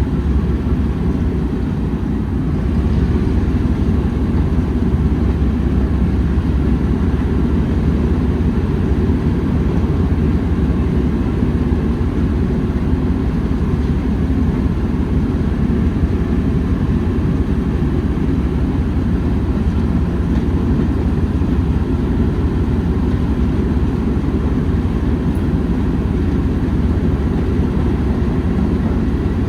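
A train running, a steady low rumble with no breaks.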